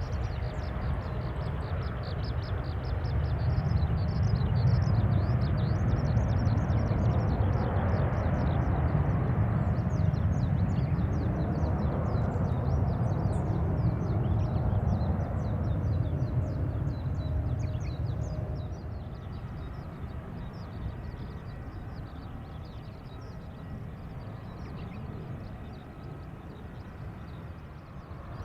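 Jet aircraft engines rumbling, swelling a few seconds in and then dying away about two-thirds of the way through. Small birds chirp over it.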